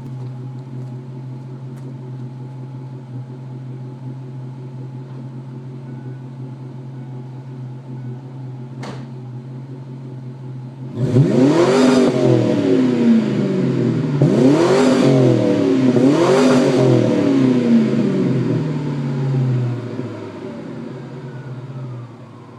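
Ford Mustang GT 4.6-litre V8 through a Flowmaster American Thunder cat-back exhaust with Super 44 mufflers, idling steadily and then revved hard three times in quick succession about halfway through, the pitch climbing and falling with each rev. It settles back to idle near the end.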